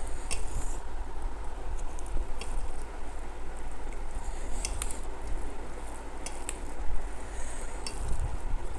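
Eating sounds: food being chewed and mixed, with scattered light clicks and taps against a plate, over a steady low hum.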